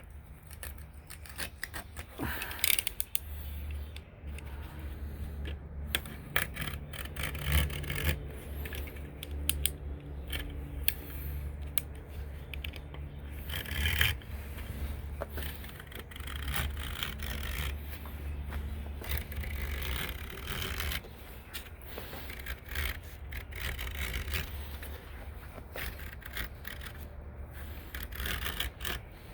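Utility knife scraping along the screen frame, trimming the excess heavy-duty pet screen, with scattered clicks and rubbing from handling the screen and frame over a low steady hum.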